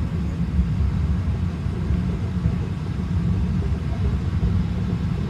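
Steady low rumble of a cog railway train climbing a steep grade, heard from inside the passenger car.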